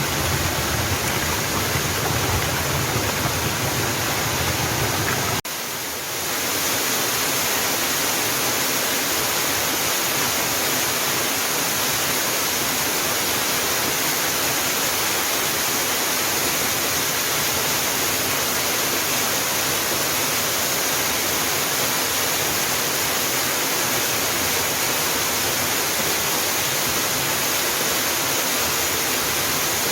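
Waterfall running: a steady, full rush of falling water. About five and a half seconds in, the deep rumble drops away and the sound dips for a moment, then the rush carries on thinner in the low end.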